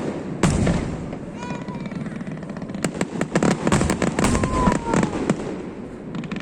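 Aerial fireworks going off: a loud bang about half a second in, then many rapid pops and crackles, with a short falling whistle about four seconds in.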